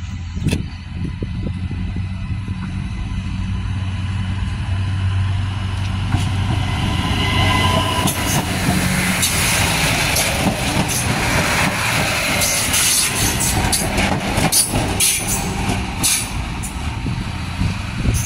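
Adelaide Metro 3000-class diesel railcar passing close by. A steady engine hum swells as it comes level, and from about six seconds in a rapid run of sharp wheel clicks on the rails goes by, then thins out near the end.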